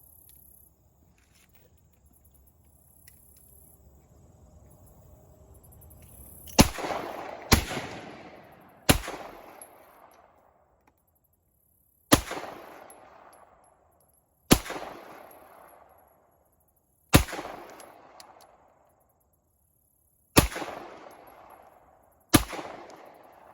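Eight single shots from a Belgian FN Browning semi-automatic pistol, fired one at a time about one to three seconds apart, each trailing off in echo. The shooting starts about six and a half seconds in.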